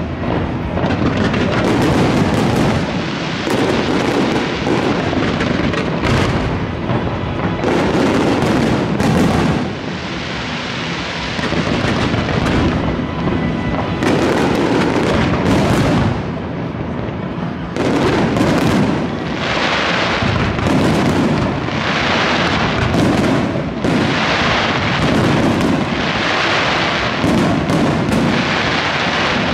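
Aerial firework shells bursting in quick succession, a dense run of booms and bangs in swelling volleys every second or two. From about two-thirds of the way in, the volleys carry more crackling and hissing.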